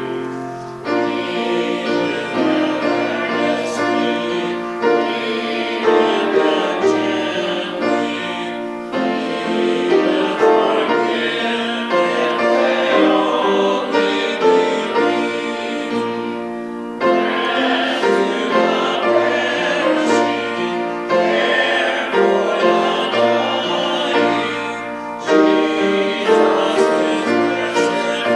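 Singing with piano accompaniment: slow, held vocal lines over piano chords.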